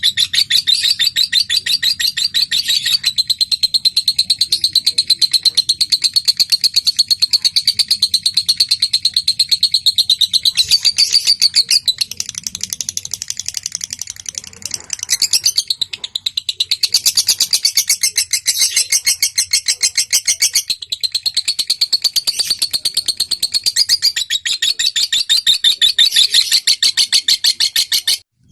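Lovebird singing in long, rapid trills of sharp repeated notes, broken by a few brief pauses, the chattering 'ngetik' and 'ngekek' song, cutting off suddenly near the end.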